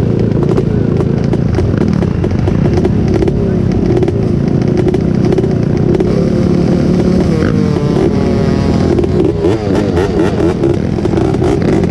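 Off-road engines of an ATV and a dirt bike running loud, revving up and down, with the pitch gliding several times around the middle.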